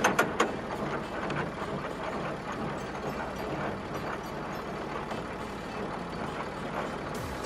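Monster truck engine sound running steadily, after a few sharp knocks at the start.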